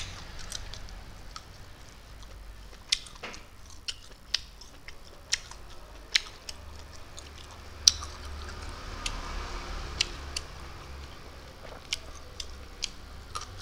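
Close-up eating sounds: chewing with sharp, irregular mouth clicks and smacks, roughly one or two a second, over a faint steady low hum.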